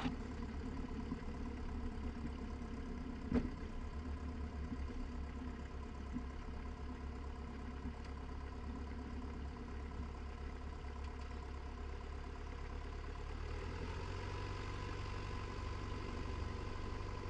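Cessna 172's piston engine running steadily at low taxi power, heard from inside the cockpit. There is a short click about three seconds in, and a faint steady whine joins near the end.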